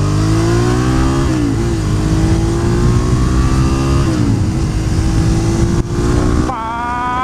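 Suzuki motorcycle engine pulling up through the gears, its note rising in pitch, dropping sharply at two upshifts, about a second and about four seconds in. Near the end the engine note jumps sharply higher.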